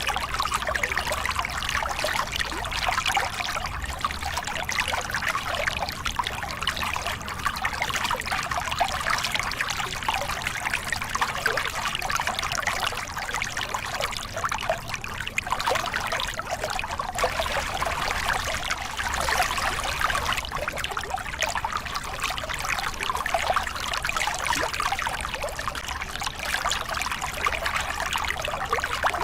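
Small river cascade: water pouring and splashing over rocks in a steady, bubbling rush.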